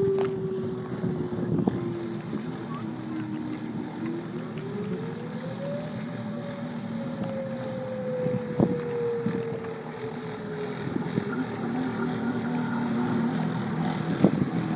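Jet ski engine running out on the water, its whine falling slowly, climbing again about four seconds in, then easing off. Wind buffets the microphone, with a couple of brief knocks.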